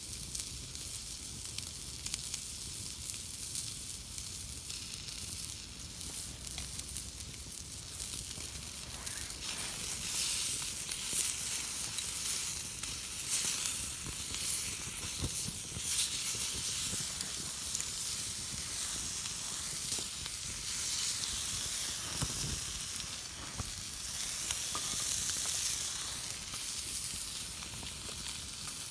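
Food sizzling on a thick iron plate over a campfire: a steady frying hiss with scattered small crackles, swelling in the middle and again near the end.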